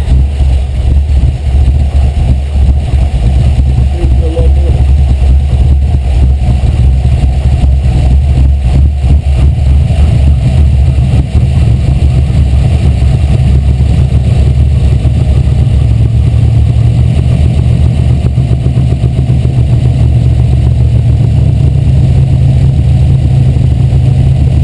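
Carbureted 5.0-litre V8 running steadily right after catching on its first start, a loud, deep, even idle with no revs.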